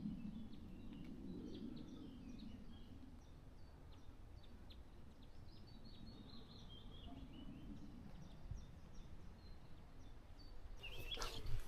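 Faint birdsong of scattered short, high chirps over a low, steady outdoor rumble. Near the end comes a sudden loud rustle with a thump.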